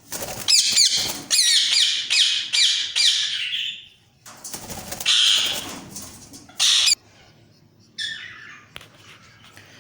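Parrots squawking: a rapid, overlapping series of rising and falling calls for about four seconds, then a couple of short noisy bursts and a few fainter calls near the end.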